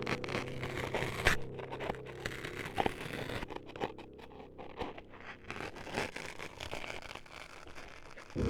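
Close-up ASMR scraping and scratching on the microphone, broken by sharp clicks, meant as the ears being cut up. A low steady hum stops about a second in.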